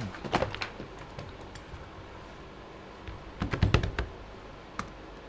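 Light clicks and taps of small hard objects being handled, in two short clusters, one at the start and one about three and a half seconds in, with a single click near the end.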